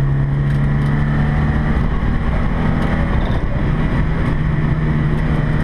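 Volvo 240 rally car's engine heard from inside the cabin at speed on a gravel road, with steady tyre and road noise. The engine note eases off about two seconds in and comes back a little higher about three and a half seconds in.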